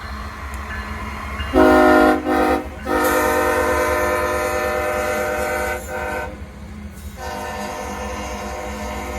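Nathan K5HL five-chime air horn on a CSX ES44AH locomotive, sounding a series of blasts: two short ones about a second and a half in, a long one, a short one near six seconds, then another long one. Under the horn runs the low, steady rumble of the diesel locomotives moving slowly.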